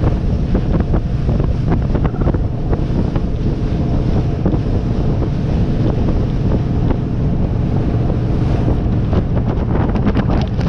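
Christina 25 motorboat running at speed: a steady engine drone under wind buffeting the microphone, with water rushing past the hull.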